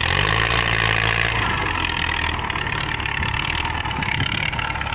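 Tractor diesel engine running steadily under power, with a low even drone and a noisy clatter above it.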